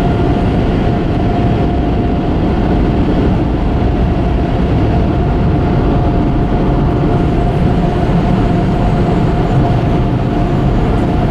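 Car-wash air dryer blowers blasting steadily over the car, a loud even rush of air with a constant whine running through it.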